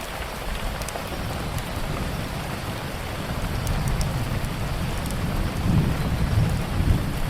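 Steady rain with a low rumble of thunder building through the second half and peaking near the end, with scattered small crackles of a wood fire.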